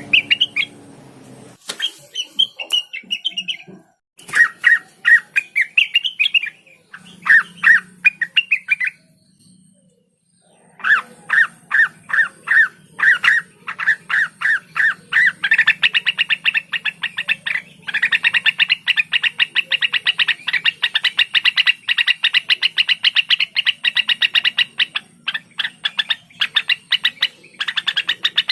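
Cucak wilis (rengganis) leafbird singing in chirping phrases of quick repeated notes, breaking off twice. About halfway through it launches into a long, fast, unbroken run of rapid notes.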